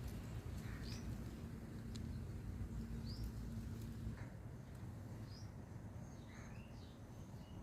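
Small birds chirping outdoors: a few short, high chirps scattered through, a cluster of them near the end, over a steady low background rumble.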